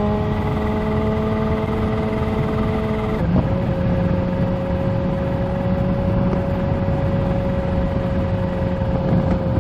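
Kawasaki Z H2 supercharged inline-four motorcycle engine pulling steadily under way; about three seconds in its note drops to a lower steady pitch as it shifts up a gear. Wind rush on the microphone runs underneath.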